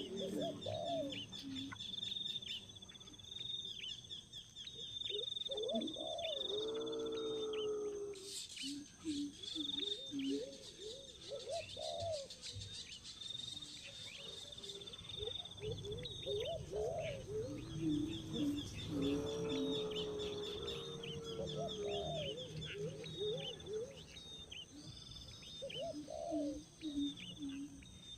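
Birds calling: a near-continuous run of high, rapidly repeated chirps, with lower pitched calls coming and going every few seconds.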